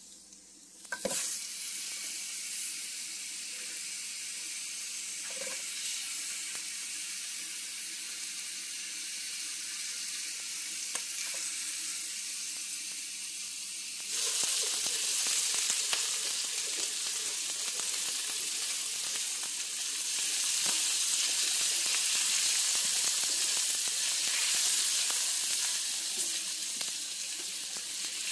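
Garlic frying in hot oil in a pan: a steady sizzle that starts sharply about a second in. About halfway through, chopped onions go into the pan and the sizzle turns suddenly louder and brighter while they are stirred with a silicone spatula.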